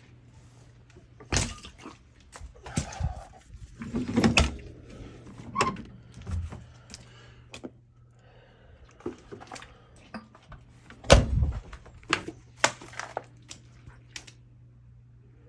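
A series of irregular knocks and thuds, as of objects being handled and set down, over a faint steady low hum; the loudest thud comes about eleven seconds in.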